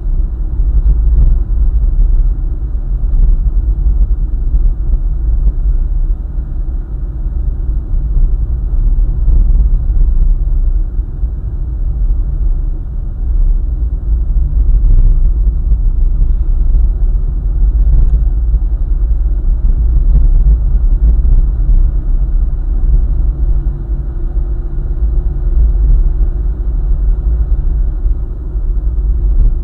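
Car driving along a highway: a steady, heavy low rumble of tyres on the road and the engine. A faint steady hum joins in about two-thirds of the way through.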